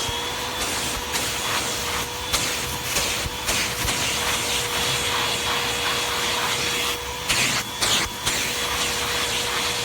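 Hoover vacuum cleaner running steadily with a constant motor whine and rush of air, with a few brief surges of suction noise as it works over the couch.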